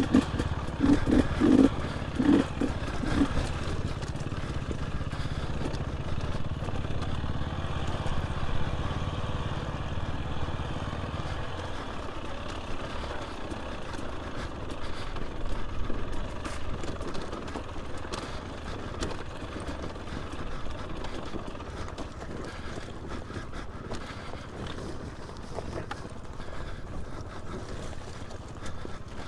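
Dirt bike engine running while riding a rough single-track trail, with knocks and rattles from the bike over the ground. The low rumble drops away about twelve seconds in.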